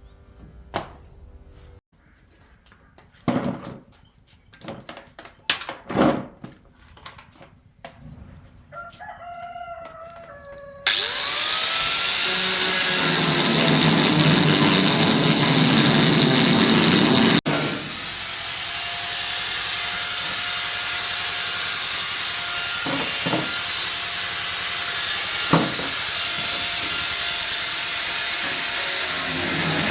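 Scattered knocks and clicks, then about eleven seconds in a power tool starts abruptly and runs loud and steady, with a short break near the middle and a few knocks over it.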